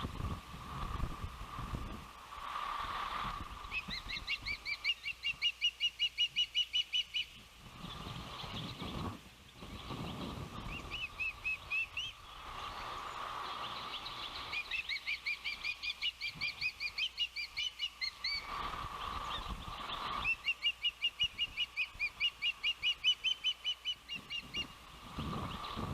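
Osprey calling: four runs of rapid, repeated high whistled chirps, about four to five a second, over low gusts of wind buffeting the microphone.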